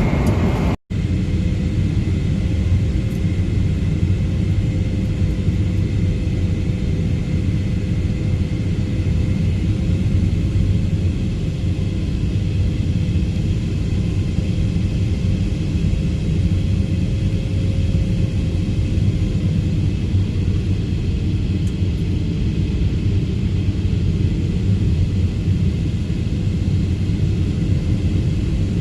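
Steady cabin drone of a jet airliner in flight, heavy low rumble of engine and airflow noise with a faint steady hum over it. It drops out for an instant about a second in.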